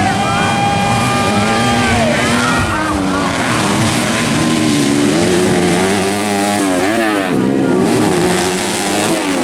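Several motocross dirt-bike engines racing at high revs. Their pitch holds steady for about two seconds, then rises and falls repeatedly with the throttle and gear changes.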